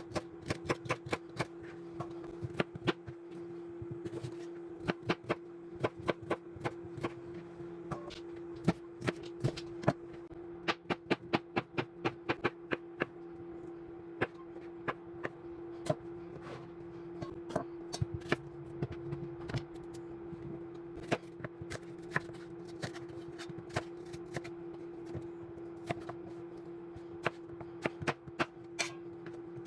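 Knife chopping fruit and vegetables on a cutting board: runs of quick, irregular knocks, over a steady low hum.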